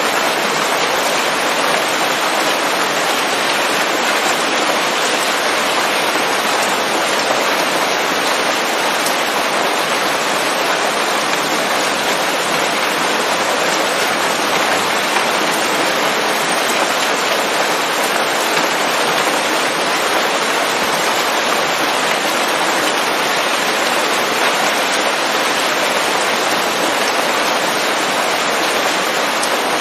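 Steady heavy rain pattering on leaves, an even dense hiss with no thunder.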